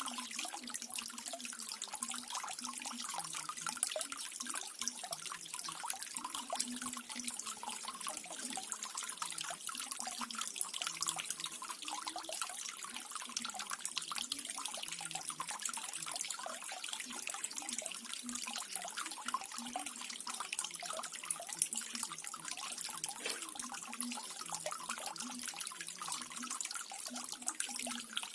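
Small waterfall splashing and trickling steadily, a continuous bright patter of falling water with many fine drips.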